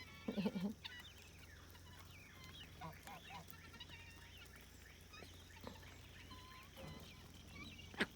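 A flock of chickens clucking and chirping softly in short, scattered calls, with one louder, lower bird call about half a second in and a sharp click near the end.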